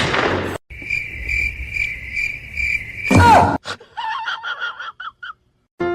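A high, steady chirp pulsing about two and a half times a second, cricket-like, set between two loud noisy bursts; a few short high-pitched calls follow near the end.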